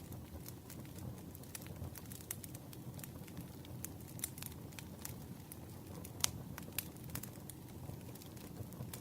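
Campfire burning with a low steady rumble and irregular crackles and pops of burning wood, one sharper pop about six seconds in.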